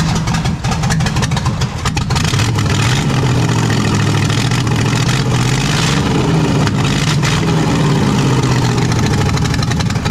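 Race-built small-block V8 with a roller cam, running loud and rough just after firing up. Its pitch wavers up and down, with a dense crackle of sharp pops. The owner puts the poor running down to a carburettor that needs a clean.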